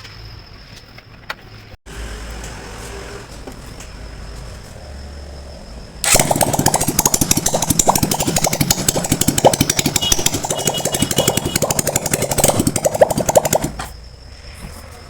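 Hero Glamour motorcycle's single-cylinder engine bursts into loud, rapid running about six seconds in and runs until near the end, after a stretch of low, steady hum.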